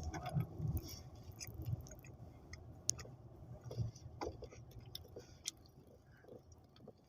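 A person chewing soft bread rolls (pandesal) close to the microphone, with many small wet mouth clicks scattered throughout.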